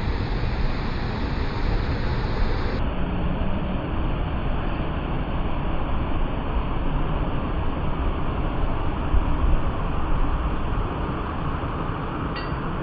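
Loud, steady rush of a large waterfall: an even noise of falling water, heavy in the low end, with no break or change.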